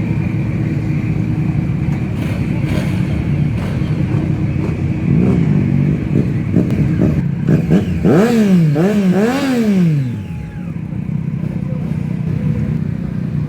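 Motorcycle engine idling, then revved several times about eight seconds in, the pitch climbing and falling in quick blips before settling back to idle.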